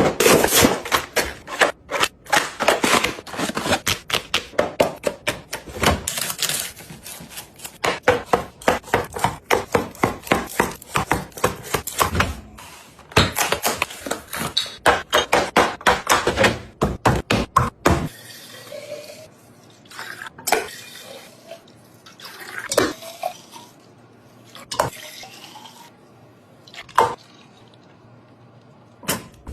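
Items being set into a refrigerator during a restock: a dense run of quick clacks and clinks, thinning to scattered single knocks about two-thirds of the way through.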